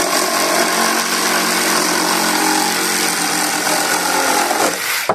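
Electric power saw running under load as it cuts an angle through a wooden ramp brace, a steady whine that stops abruptly near the end.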